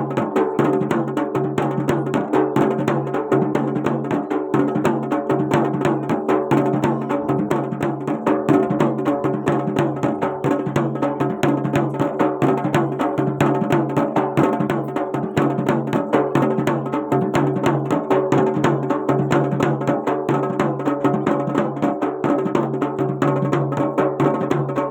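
Garhwali jagar folk music: fast, continuous drumming over steady held tones.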